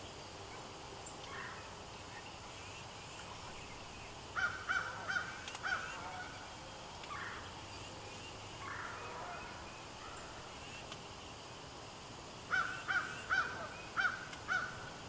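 Turkey yelping: two runs of about six quick, evenly spaced yelps, with a few softer single calls between them.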